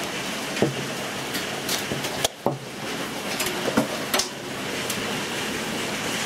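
Steady rain falling after a hail storm, with a few scattered knocks and taps.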